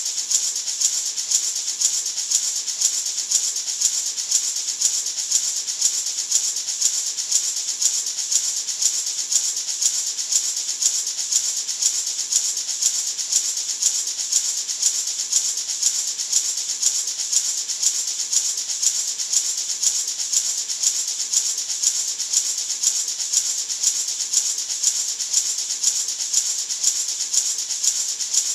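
A natural gourd maraca shaken in a steady, even rhythm of about two shakes a second, making a continuous bright, hissing rattle.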